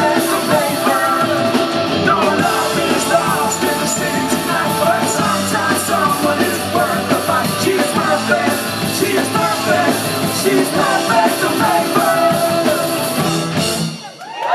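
Rock band playing live, with electric guitars, bass, drums and some singing, through the closing bars of a song, stopping abruptly near the end.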